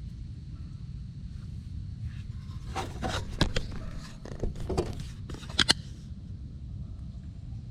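Several short scrapes and clicks of something being handled, bunched between about three and six seconds in, over a steady low rumble.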